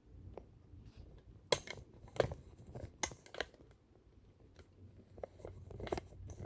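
A string of sharp clicks and taps from handling an all-metal vintage sewing machine and its parts, irregular, with the loudest about a second and a half and three seconds in.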